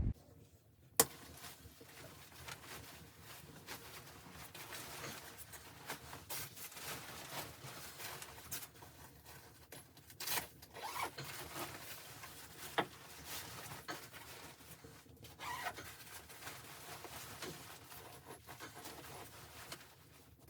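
Faint, irregular rustling and scraping, as of fabric or gear being handled in a small enclosed space, with scattered sharp clicks and knocks, a louder one about a second in.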